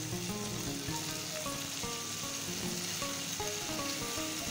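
Chicken tikka pieces sizzling steadily in a pan on low flame. A soft background music melody plays over the frying.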